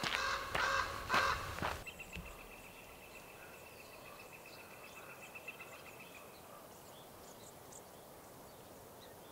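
Wild birds calling outdoors: a few loud, harsh, crow-like calls in the first two seconds. Then, over quiet open-air ambience, a thin, high, rapid trill holds steady for about four seconds.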